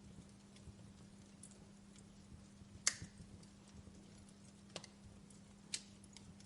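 Wood fire in a fireplace crackling: scattered sharp pops and snaps, the loudest about three seconds in, with two more near the end, over a low steady hiss and a faint steady hum.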